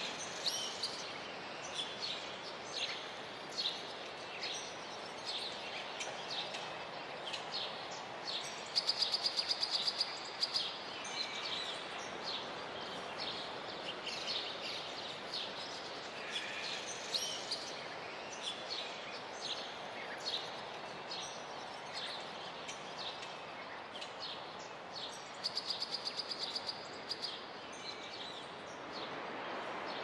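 Birds chirping over and over above a steady rushing background noise. A fast trill of quickly repeated notes comes about nine seconds in and again near the end.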